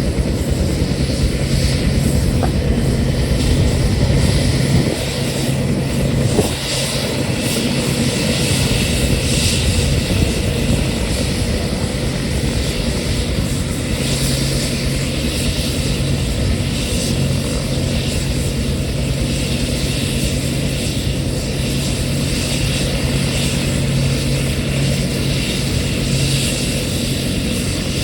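Military helicopter's rotor and turbine engine running loud and steady, with a slight drop in level about six seconds in.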